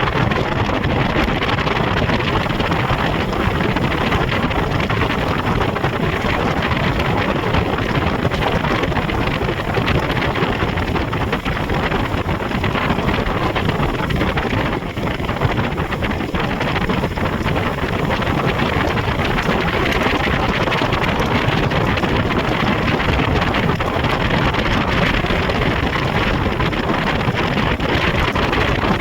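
Speedboat running steadily at speed on a river, its motor and the rush of water mixed into heavy wind buffeting on the microphone.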